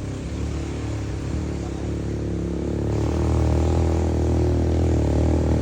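Off-road vehicle engine running under load, getting louder about three seconds in.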